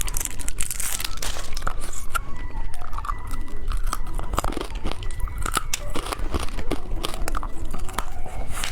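Crinkling and tearing of a plastic candy wrapper with many sharp crunchy clicks as a caterpillar lollipop is opened and handled.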